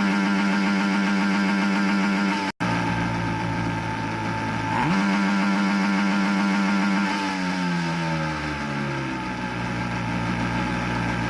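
Outboard motor revving up and holding a steady speed, revving up again about five seconds in, then its revs falling back to a steady idle around eight to nine seconds. The sound breaks off suddenly for a moment about two and a half seconds in.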